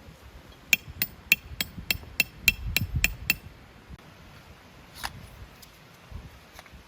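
A hard metal object struck over and over: about ten quick, ringing taps at roughly three a second, then one fainter tap a little later.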